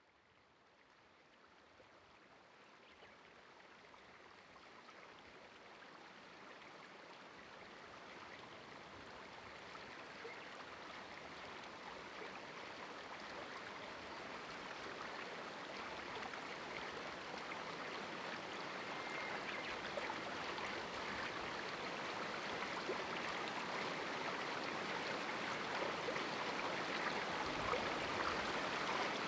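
A river flowing over rocks in a small canyon: a steady rush of running water that fades in gradually, growing louder throughout.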